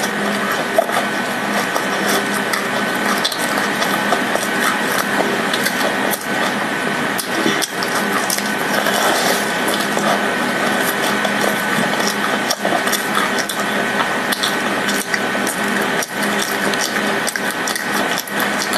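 Close-up mouth sounds of chewing a crumb-coated fried glutinous rice cake, with many small irregular clicks, over a steady hiss and a faint hum.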